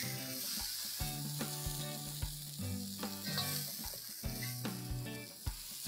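Onion-tomato masala sizzling in a hot kadai as a steel spatula and ladle scrape it up and scoop it out, with a series of light knocks of the utensil against the pan.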